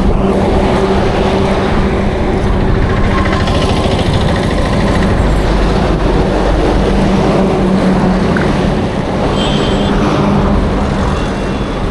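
Road vehicle engine running steadily close by with a low hum that fades for a few seconds in the middle and returns, over a constant rush of road and wind noise.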